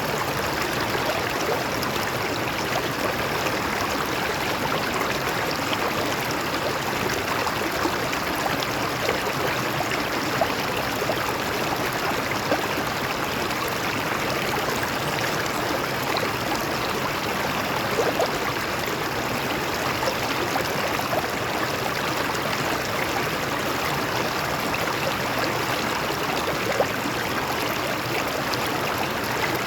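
Water of a stream flowing over rocks, a steady rush with a few brief louder splashes.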